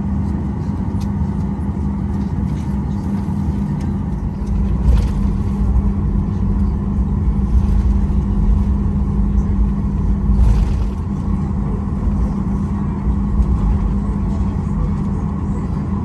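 Cabin noise inside a Boeing 737-800 taxiing after landing: a steady drone from the idling engines over a low rumble that grows louder in the middle.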